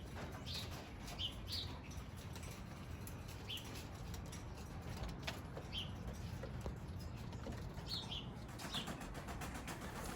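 Young racing pigeons flapping their wings as they take off and flutter about, with short high bird chirps every second or two over a low steady rumble.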